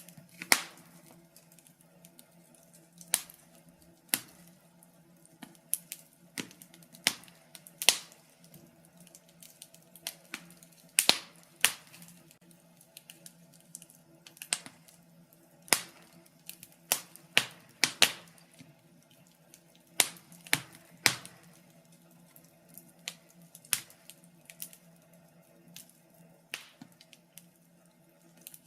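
Wood fire burning in a fireplace, crackling with irregular sharp pops and snaps, some in quick clusters, over a faint steady hum.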